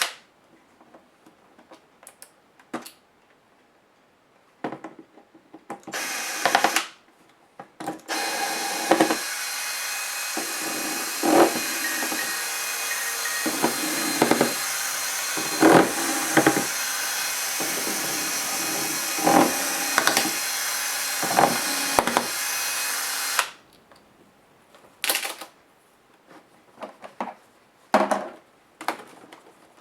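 Electric screwdriver running in a couple of short spurts, then steadily for about fifteen seconds before stopping suddenly. Sharp clicks and knocks of handled parts and screws sound over it and after it.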